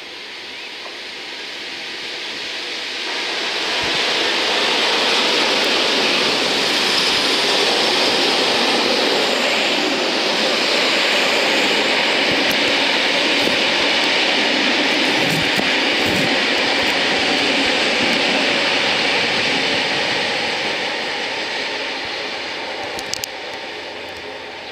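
Class 66 diesel freight locomotive approaching and passing close underneath, followed by a long train of freight wagons rolling steadily past on the rails. The sound builds over the first few seconds, holds loud for a long stretch, then fades as the train draws away.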